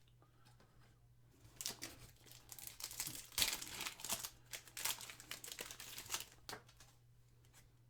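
Trading-card pack wrapper being torn open and crinkled by hand, a dense run of crackles that starts about a second and a half in and stops near the end.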